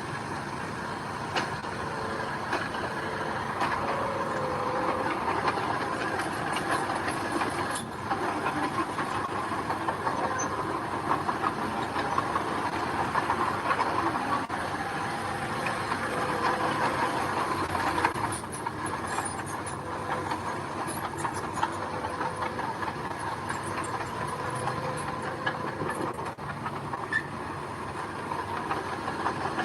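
Heavy machinery working gravel: a diesel engine runs under a steady grinding of gravel, with many small clanks and clicks.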